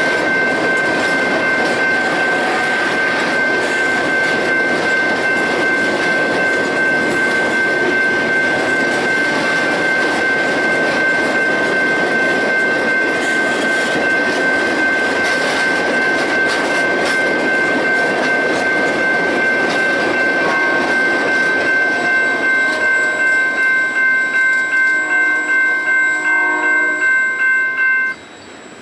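Loaded iron ore train rolling past, with a steady high-pitched whine held over the rumble of the cars. About two-thirds of the way through, a regular wheel clatter of about two beats a second sets in, then the sound cuts off suddenly just before the end.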